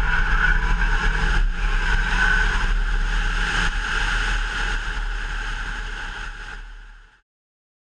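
BMW M6 Gran Coupé's 4.4-litre twin-turbo V8 running as the car drives at speed, mixed with heavy wind rush on a camera mounted outside the car. The sound fades away over the last couple of seconds.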